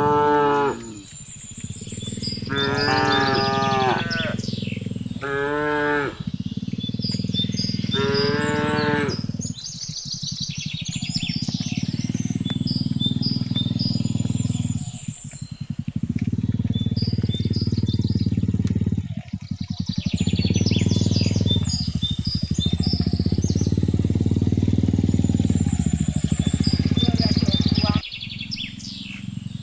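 Cattle mooing: four pitched calls in the first nine seconds, followed by a long, steady low rumbling sound that cuts off shortly before the end.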